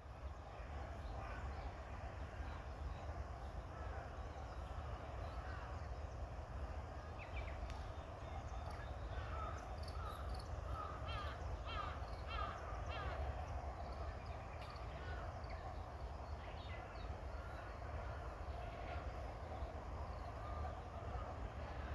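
Early-morning birdsong: many birds calling, with a flurry of short, quick chirps around the middle, over a dense, steady background chatter and a low rumble.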